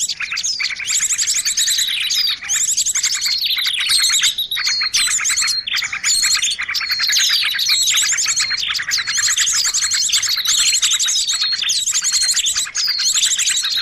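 A dense chorus of many small songbirds chirping and trilling at once, with rapid high trills layered over one another without a break. This is a bird-lure (pikat) recording meant to draw small birds in.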